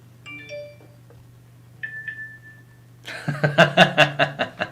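A few short electronic tones and a doubled beep like a phone's text alert, followed near the end by a quick chuckling laugh of about a second and a half over a low steady hum.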